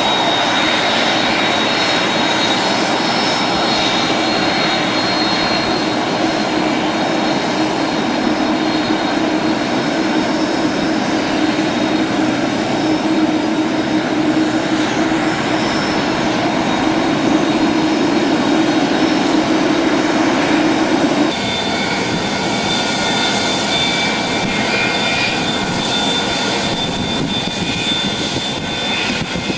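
Jet airliner engines running loud and steady, with a high whine over a deep drone. About two-thirds of the way through, the sound changes abruptly to a slightly quieter aircraft engine.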